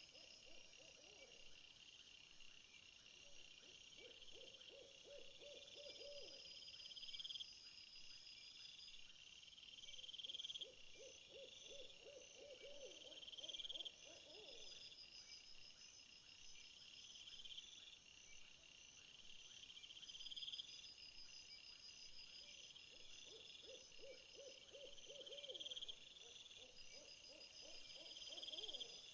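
Faint outdoor nature ambience: insects chirping in short high rising phrases about every two seconds, with a lower trilled animal call that comes and goes several times.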